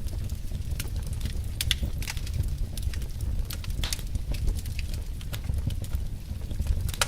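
Wood fire of burning logs crackling, with irregular sharp pops over a steady low rumble.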